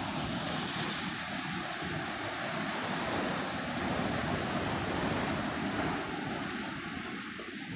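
Ocean surf washing onto a beach, a continuous rush that swells through the middle and eases off near the end, with sea wind.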